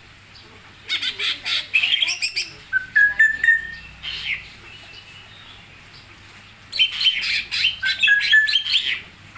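A songbird singing two loud phrases of rapid chirps and short whistled notes, the first about a second in and the second near the end, with a quiet pause between.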